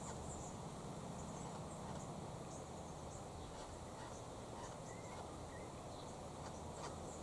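Quiet outdoor garden ambience: a steady low hum with faint, scattered high-pitched chirps.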